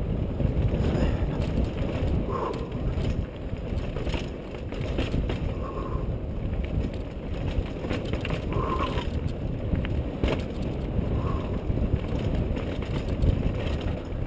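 Mountain bike descending a rough trail: steady wind buffeting on the camera's microphone over tyre rumble and frame rattles, with irregular knocks from bumps and four short squeaks.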